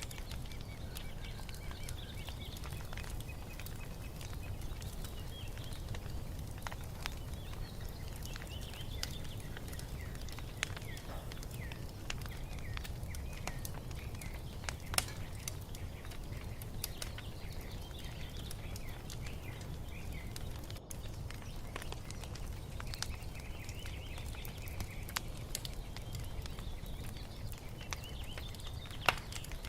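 Wood fire crackling with scattered sharp pops over a steady low rumble, the loudest pops about halfway through and near the end, while small birds sing and chirp in short phrases.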